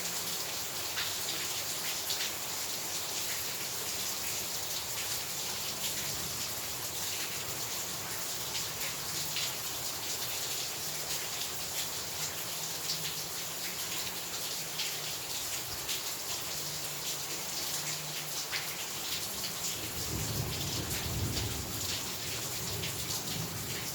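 Heavy rain falling steadily, a dense hiss full of drop ticks. Near the end a low rumble of thunder comes in.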